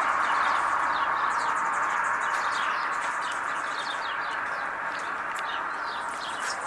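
Songbirds chirping, with many short, quick calls over a steady rushing noise that slowly fades away.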